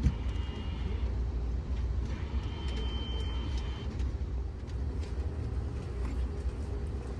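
Steady low rumble of the Amtrak Auto Train heard from on board, with a few faint clicks and a thin high tone that comes in twice.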